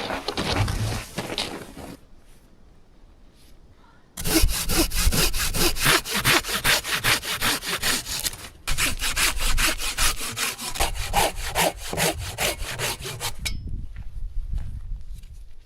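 Hand saw cutting dry wood in quick, even back-and-forth strokes. The sawing starts about four seconds in, pauses briefly, resumes, and stops a couple of seconds before the end.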